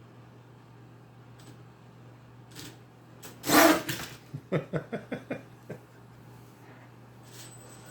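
Venom Mini Giant RC monster truck: a sudden loud burst about three and a half seconds in, then a quick run of about ten short knocks and rattles that stop near the six-second mark.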